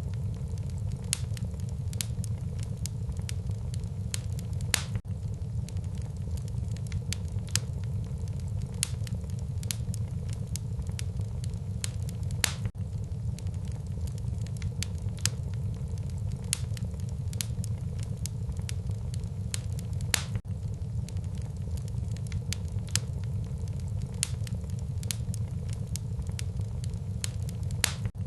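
Wood fire burning in a fireplace: a steady low rumble of the flames with irregular sharp crackles and pops, a few louder snaps standing out.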